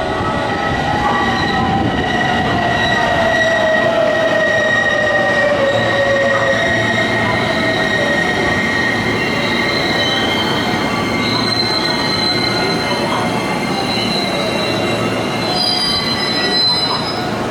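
Electric train moving through the station, its motor whine falling steadily in pitch over the first six seconds as it slows, over a steady high squeal from the wheels.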